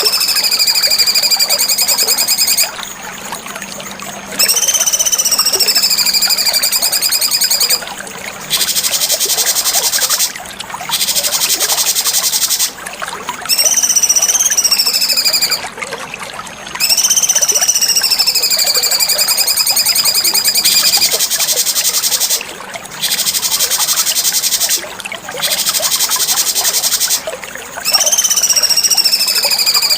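Cucak cungkok songbird singing a repeated song of phrases a couple of seconds long with short pauses between: high whistled notes that rise briefly, slide down and hold, alternating with dry, rapid buzzing trills.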